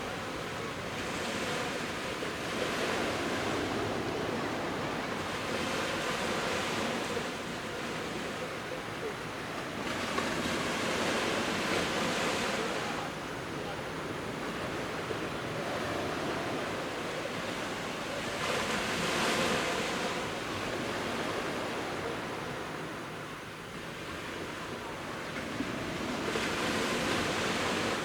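Sea waves of about a metre breaking on the shore: a continuous wash of surf that swells and fades about four times, several seconds apart.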